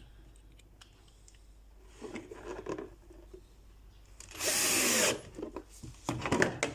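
A power drill driving a screw through a plastic roof panel into wood, running in one burst of about a second just past the middle, with its motor pitch shifting. Lighter knocks and rattles of handling come before and after it.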